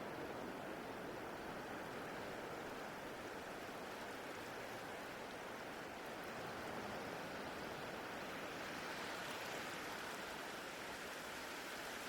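Ocean waves washing in a steady rush of surf, swelling slightly for a few seconds partway through.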